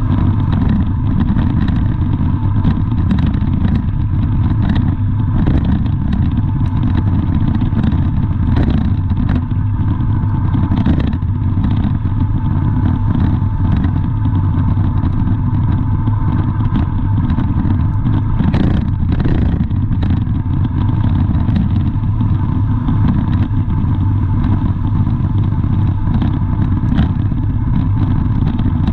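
Steady low rumble of a vehicle engine running, with a faint constant tone and scattered light clicks over it.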